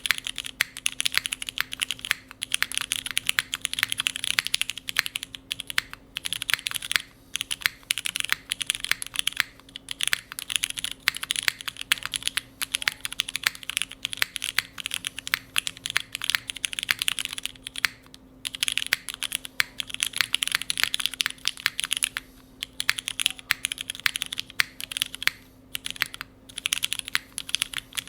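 Typing on a Neo65 Core Plus mechanical keyboard with an aluminium plate, Cherry MX Brown tactile switches and GMK keycaps. The keystrokes click in fast, steady runs broken by a few short pauses.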